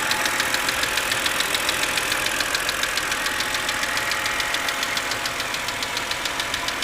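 2006 BMW 330i's 3.0-litre inline-six engine running with a rapid, even ticking, several beats a second. It is an intermittent noise that is loudest at the front of the engine on the driver's side.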